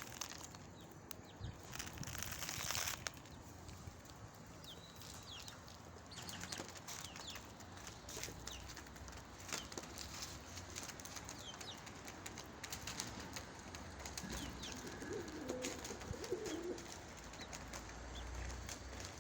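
Pigeons cooing, with scattered clicks and a short rush like wing flapping about two seconds in. A low, wavering coo comes about fifteen seconds in.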